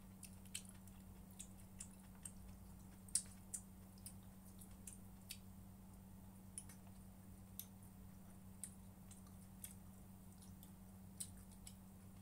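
Faint chewing with scattered short mouth clicks and smacks, the loudest a little after three seconds in, over a steady low hum.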